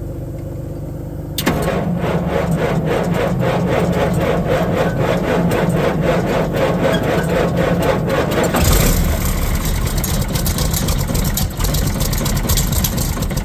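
A John Deere diesel engine on a Hood 24000 slasher is cold-started at 12 below. About a second and a half in, the starter begins cranking it with an even, rapid beat. Near nine seconds it catches and runs on. A steady low engine hum sits under it at the start.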